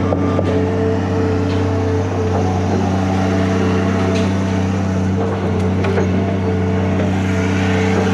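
John Deere 250G LC excavator's diesel engine running steadily under working speed, with a few short sharp cracks and clicks a few seconds in as it handles brush and tree limbs.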